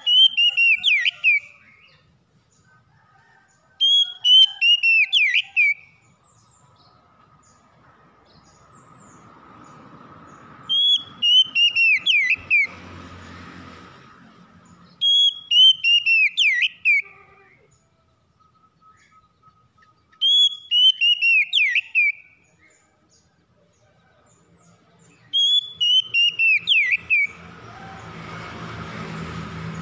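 Oriental magpie-robin (kacer) singing: a short phrase of clear, falling whistled notes, about two seconds long, repeated seven times at gaps of four to five seconds. A faint low rumbling noise builds up beneath the song twice.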